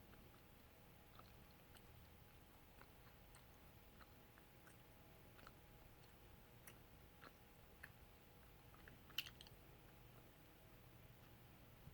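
Near silence: room tone with a faint steady hum and faint, irregular small clicks, one sharper click about nine seconds in.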